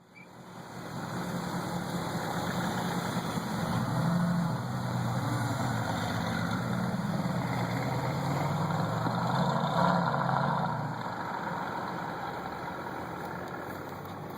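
Mercedes-AMG GT S twin-turbo V8 running at low revs through its exhaust. The note swells about four seconds in and again around ten seconds, then eases off.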